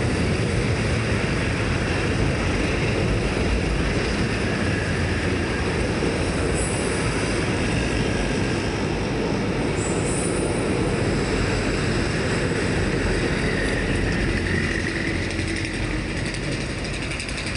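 Train rolling past close by: a steady, loud rumble of wheels on the rails, easing off slightly near the end.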